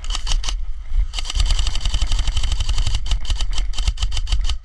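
Airsoft gun firing on full auto: a short burst, then after a brief pause a long burst of rapid, evenly spaced shots lasting about three and a half seconds.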